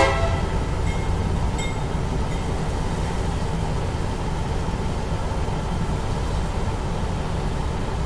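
Diesel-hauled passenger train rolling across a road crossing: a steady low rumble of the locomotive and coaches passing. A horn blast cuts off at the very start.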